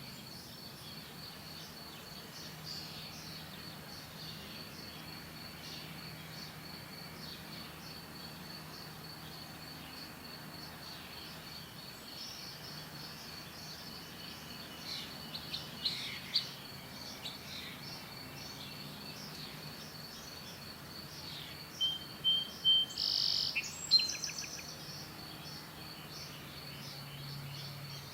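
Wild birds chirping and calling over a steady, high, pulsing insect trill, with a run of loud, sharp chirps about three quarters of the way through.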